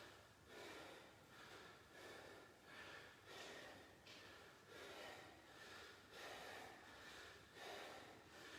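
A man breathing hard and rhythmically while doing squats, faint, with about one breath a second.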